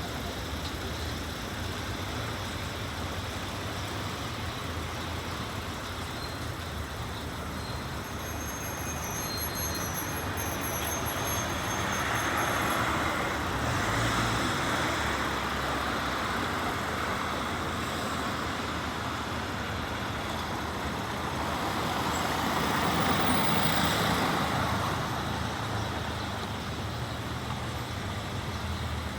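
Steady road traffic noise, swelling twice as vehicles pass, once a little before halfway and again about four-fifths of the way through.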